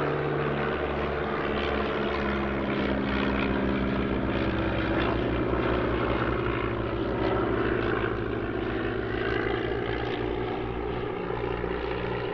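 Piston propeller engines of light aircraft, de Havilland Gipsy engines of a Chipmunk and an Auster, running steadily in flight. The engine note slides slowly in pitch as they fly past.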